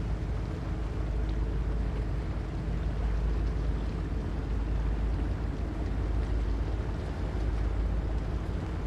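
Diesel engine of a river sand barge running steadily, with a low even hum, while wind rumbles on the microphone.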